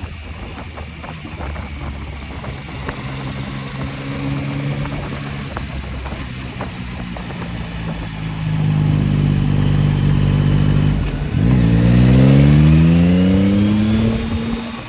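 Yamaha MT-09 inline-three engine heard from the rider's seat, holding a steady note, then getting louder; about eleven seconds in the pitch drops as it shifts up, then climbs steadily as the bike accelerates hard. Wind rushes over the microphone throughout.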